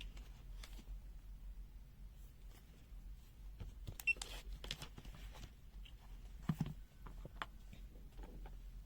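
Faint, scattered clicks and taps from a handheld digital multimeter and its test leads being handled, with a sharper click about four seconds in and a dull thump about six and a half seconds in.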